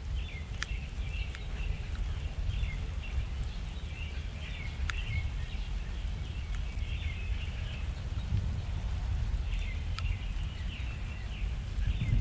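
Small backyard birds chirping and twittering, many short overlapping calls. A few sharp clicks and a steady low rumble run underneath.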